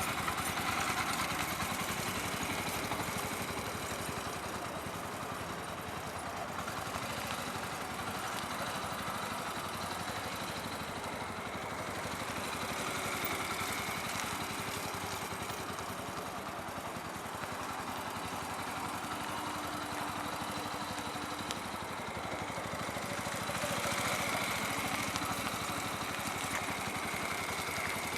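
Motorcycle engine running steadily at low revs as the bike is ridden slowly, growing slightly louder near the start and again near the end.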